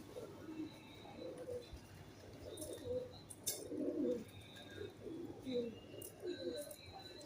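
Pigeons cooing repeatedly in low, wavering calls, with faint higher chirps of small birds and a few sharp clicks.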